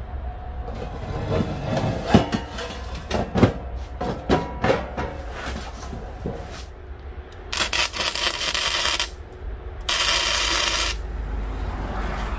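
Steel plates clanking and ringing as they are set in place, then two short tack welds with an arc welder, each a steady hiss of about a second to a second and a half with a short break between them.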